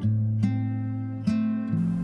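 Soft acoustic guitar music: strummed and plucked notes ringing over sustained low bass notes, a new stroke about every half second or so.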